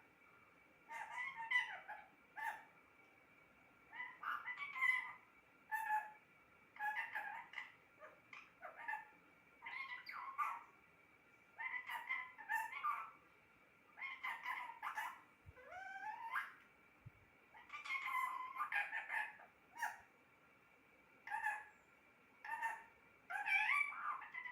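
Pet parrot chattering and calling in short bursts, about one every second or so, with pitch that slides up and down.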